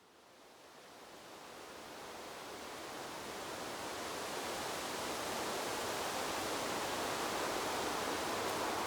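Wind blowing through a bamboo grove, a steady rushing rustle of leaves. It fades in from silence, growing louder over the first several seconds, then holds steady.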